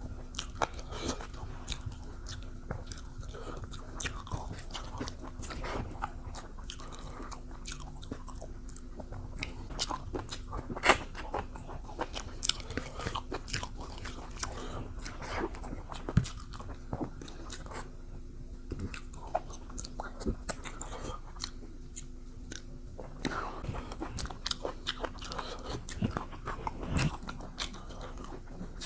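Close-up eating sounds: a person biting and chewing spicy chicken, with frequent crunches and wet mouth clicks. A faint steady hum runs underneath.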